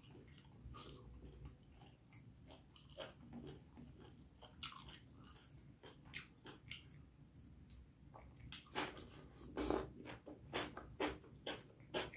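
Close-miked chewing and biting of spicy beef curry with rice: irregular wet mouth clicks and smacks, louder and closer together in the last few seconds.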